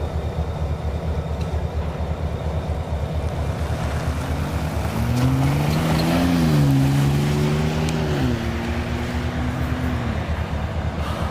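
EMD diesel-electric locomotives (SD40-2s and an SD9) running with a steady, pulsing low throb. About halfway through, a droning engine tone rises, dips and holds for a few seconds before fading.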